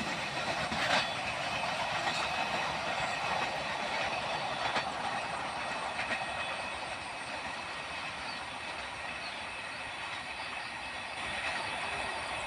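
A train running along the track, its wheels clacking over the rail joints; the sound eases off a little about halfway through.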